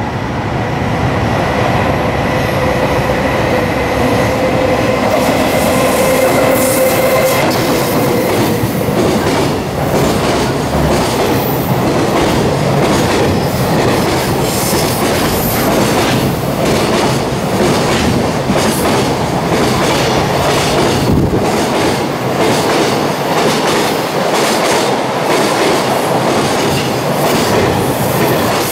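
Long container freight train passing close by at speed: a steady whine over the rushing noise in the first several seconds as it arrives, then continuous rumble and the rhythmic clickety-clack of the wagons' wheels over the rail joints.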